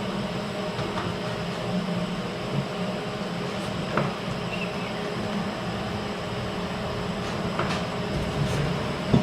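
A steady low machine drone, with a few light clicks and knocks on top.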